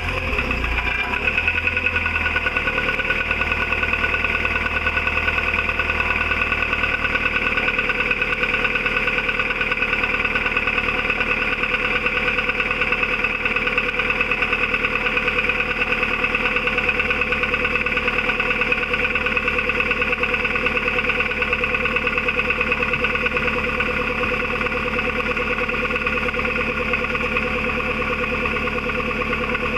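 VW Golf IV 1.4 16v four-cylinder petrol engine idling steadily, with an even, fast pulsing beat; the low end settles in the first second or two.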